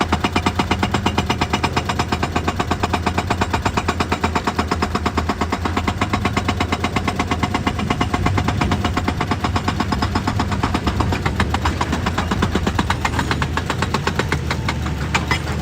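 Hydraulic rock breaker on an excavator hammering rock in rapid, even blows, over the steady drone of the diesel engine. The blows ease off near the end.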